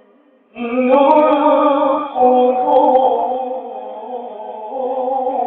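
A man reciting the Quran in the melodic tajwid style, drawing out long, ornamented vowel notes. The voice comes in about half a second in.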